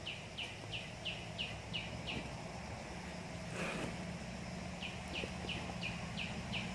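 A bird calling in a regular series of short, falling chirps, about three a second, breaking off for a few seconds in the middle and then starting again. A brief rustle comes about halfway, over a faint low hum.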